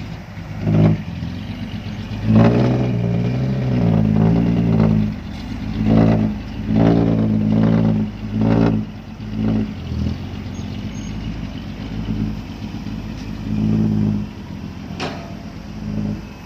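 Loaded six-wheel dump truck's diesel engine revving in repeated surges, about a dozen, as it struggles up a sticky clay ramp.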